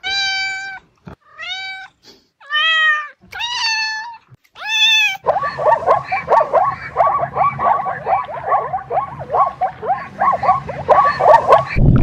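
A domestic cat meowing five times, each meow rising then falling in pitch. About five seconds in it gives way to a fast run of short repeated animal calls, about three a second, over a low hum.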